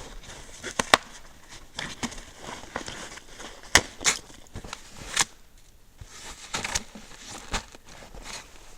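Irregular crunching in wet snow with several sharp knocks and cracks of wooden poles or logs being handled and set in place.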